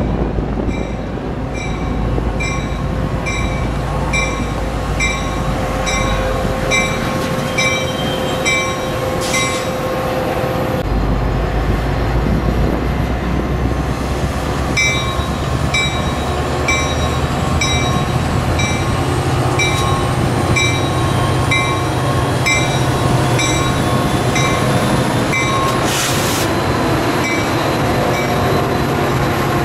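Metra commuter train led by two F40PHM-2 diesel locomotives passing with a steady rumble. Above it a high ding repeats about one and a half times a second, pausing for a few seconds midway.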